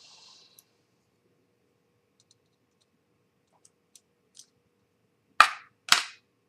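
Small model-kit parts and tools being handled: a brief scrape, a few faint clicks, then two loud sharp knocks about half a second apart near the end, hard pieces knocking against the work surface.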